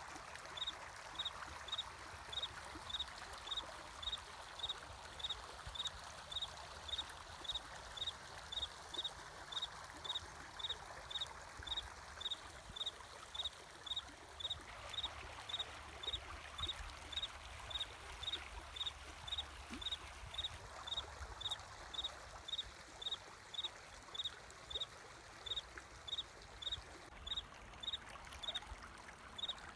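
A cricket chirping in a steady high-pitched rhythm, about two chirps a second, over the steady rush of flowing water.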